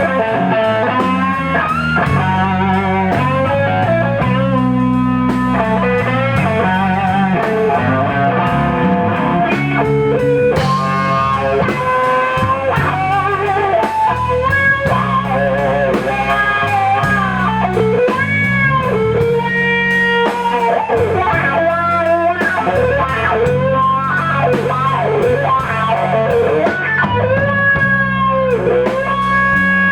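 Electric blues guitar solo in a slow blues, with bent, wavering lead notes over a bass line and drums.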